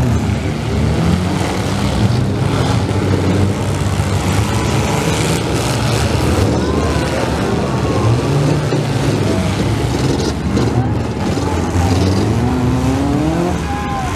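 Several demolition-derby compact cars' engines running and revving together, with rising revs near the end.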